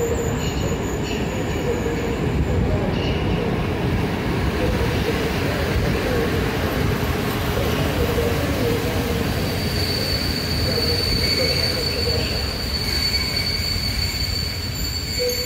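Passenger train moving along a station track: a steady rumble of wheels on rails, with a thin, high wheel squeal setting in about ten seconds in and holding.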